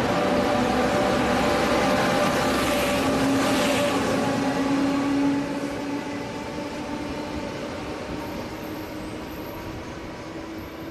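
Taiwan Railway train running past along the platform: a loud, steady rumble of wheels on rail with a few steady humming tones. The level drops about five seconds in as it moves away.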